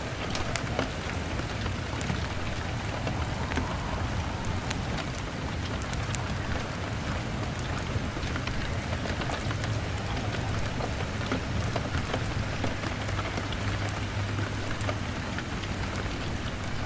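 Steady rain on window glass, with many small sharp crackles from a wood fire scattered through it and a low rumble underneath.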